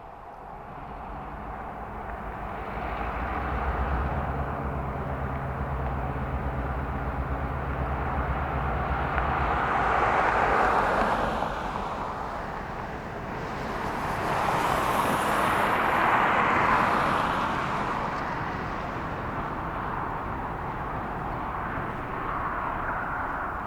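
Outdoor vehicle noise: a low engine drone that holds steady for several seconds and then drops away, with two swells of passing-vehicle noise that each rise and fade, the louder one about two-thirds of the way through.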